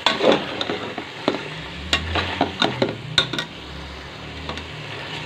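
Raw potato fingers sizzling in hot ghee with green chickpeas in a steel pot. They are stirred with a metal slotted spoon that gives repeated sharp clicks and scrapes against the pot.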